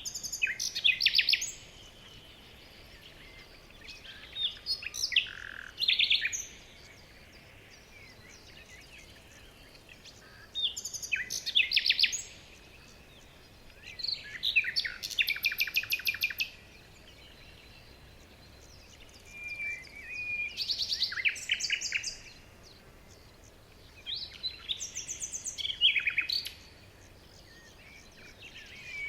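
Songbird singing: six or so separate phrases of about two to three seconds each, made of fast trills, with short pauses between them. A faint steady outdoor hiss lies underneath.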